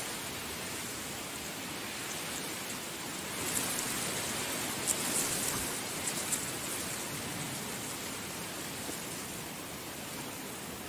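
Heavy rain falling in a steady hiss, with brighter patter of individual drops picking up in the middle for a few seconds.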